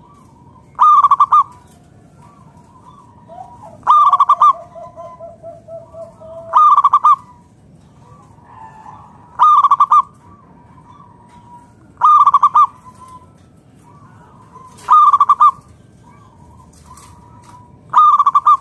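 Zebra dove (perkutut) cooing: a loud, short, trilled coo repeated about every three seconds, seven times. A fainter, lower drawn-out note sounds between the second and fourth coos.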